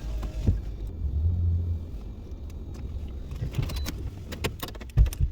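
Car heard from inside while driving in snow: a low road rumble that eases after about two seconds, with scattered clicks and two sharp thumps near the end.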